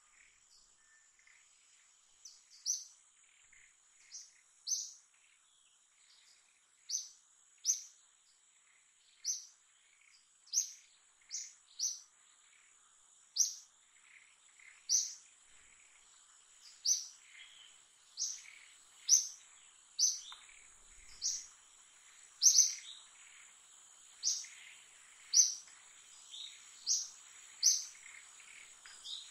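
A bird repeating a short, high, falling chirp roughly once a second, beginning about two seconds in, over a steady high-pitched insect drone.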